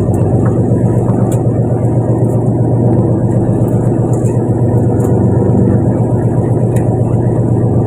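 Fishing boat's engine running steadily, a loud, even, low drone.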